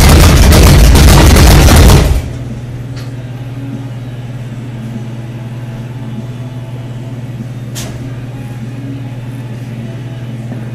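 The engine of a 1936 Ford rat rod running loud on its first start-up, then shut off abruptly about two seconds in. A steady low hum remains afterwards, with a faint click or two.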